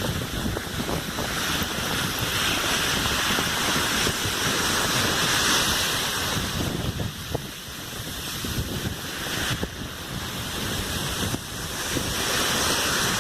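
Sea surf washing on a beach, swelling louder a couple of seconds in and again near the end, with wind buffeting the microphone.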